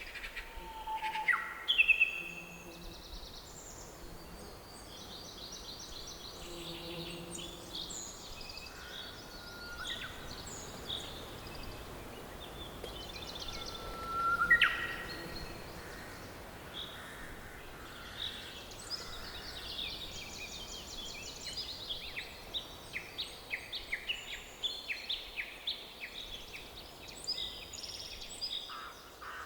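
Forest birdsong: several birds chirping, trilling and whistling over a faint steady hiss of background noise, with a loud sharp call about two seconds in and another about halfway through. Near the end the chirps come thick and fast.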